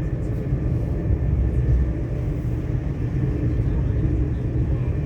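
Steady low rumble of a passenger train running, heard from inside the carriage as it passes through a tunnel.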